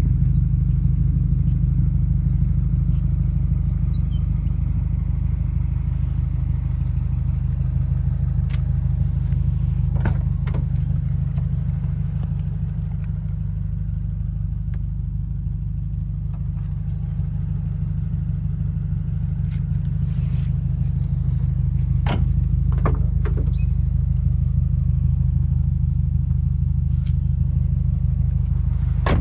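Subaru Impreza WRX STI's 2.0-litre turbocharged EJ207 flat-four idling steadily with a low, even rumble. A few light clicks sound over it.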